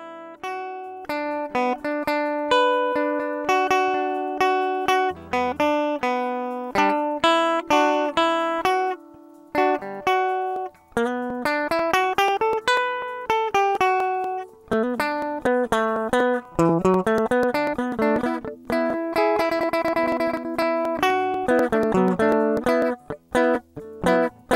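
Guitar played note by note, plucked strings in melodic runs that rise and fall, each note ringing and fading.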